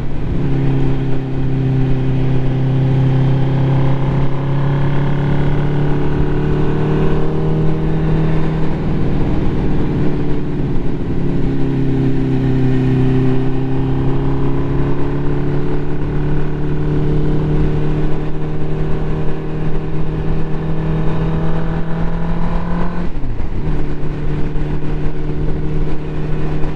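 Ducati motorcycle engine under way, its pitch climbing steadily as it pulls through the gears, easing and dipping briefly midway, then climbing again. Near the end there is a quick break and the note drops: a gear change.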